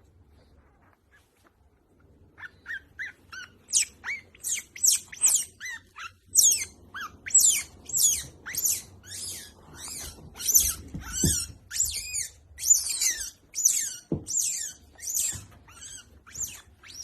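A small animal making short, high-pitched chirps, each falling in pitch, repeated about twice a second; they begin about two seconds in and grow louder after about six seconds.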